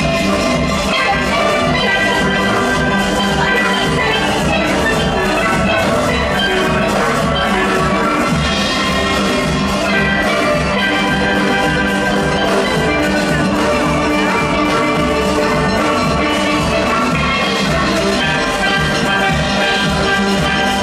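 A steel orchestra playing: many steelpans in full ensemble carrying melody and chords over drums that keep a steady driving beat.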